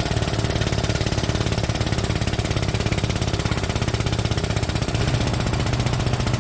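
A machine starts suddenly and runs with a rapid, steady chatter, with a low hum under it, as the pulling rig puts tension on the wrecked front end.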